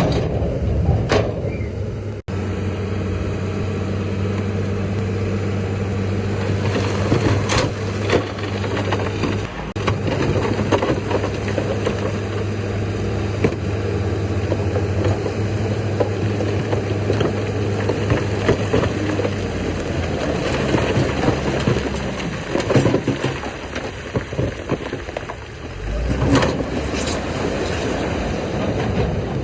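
Heavy diesel earthmoving machinery running steadily, with a few sharp knocks and clanks. The steady engine note changes about twenty seconds in.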